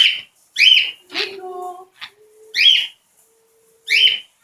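A bird at close range giving short, shrill, whistled calls over and over, each one sliding up and down in pitch, about one every second or so, with a lower, longer call about a second in.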